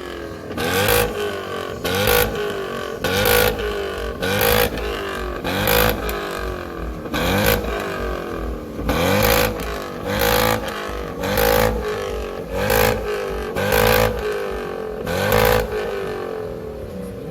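Performance car engine revved repeatedly through a loud exhaust: about a dozen quick blips roughly every second and a bit, each pitch rising and falling back, with a sharp rasp at the peak of each rev.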